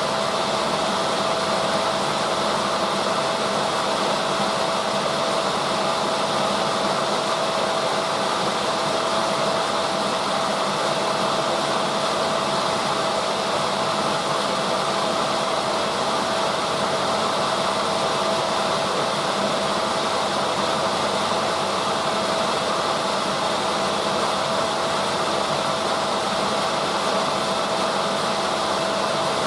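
Drum-type washing machine running with its drum turning: a steady, even whirring hum with a constant tone over it.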